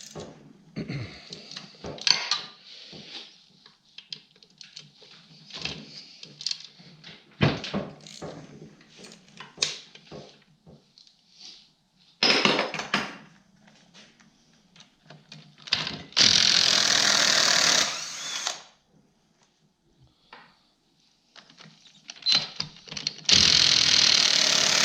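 Metal tools clicking and clinking, then two bursts of about two seconds each from a cordless electric impact wrench hammering at rusty bolts on a snowmobile engine's coolant pump housing.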